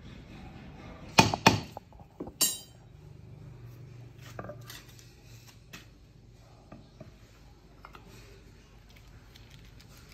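Two sharp metal knocks about a second in, then a louder ringing metal clank, followed by scattered light clicks and taps of hand tools and metal parts being handled, with a faint low hum in between.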